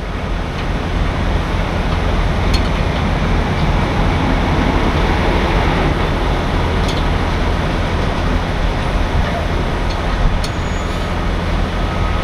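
Heavy truck's diesel engine running steadily under a continuous rush of air, as compressed air is fed into the towed truck's air system through the air dryer's pop-off valve fitting.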